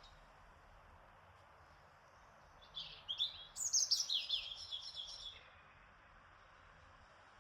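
A songbird sings one quick, lively phrase of rapid falling notes, about two and a half seconds long, a few seconds in, over a faint steady background hiss.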